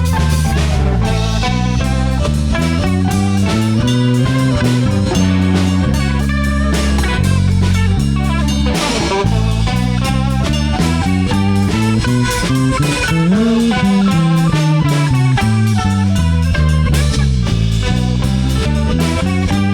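Rock band playing an instrumental break: electric guitar with bass and drum kit.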